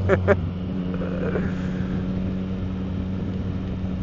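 Motorcycle engine with an aftermarket Yoshimura exhaust running steadily; about half a second in, its speed steps up and then holds.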